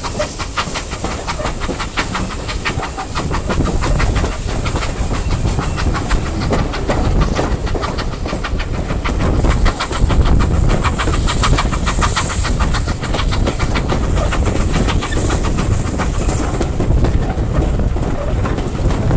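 Moving heritage passenger train heard from an open carriage window: a steady rhythmic clatter of the coach wheels over the track, over a constant rush of running noise and wind.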